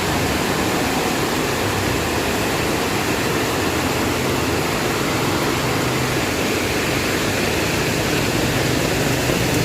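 Heavy rain pouring down, a steady dense hiss, with a low steady hum underneath.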